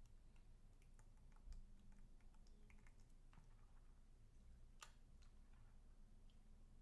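Near silence with a few faint, scattered small clicks and ticks, the loudest a little before five seconds in.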